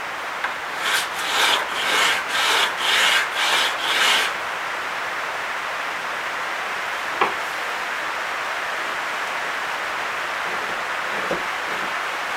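A small piece of dense hardwood rubbed back and forth on a coarse-grit sanding block by hand: about seven rasping strokes, roughly two a second, which stop about four seconds in.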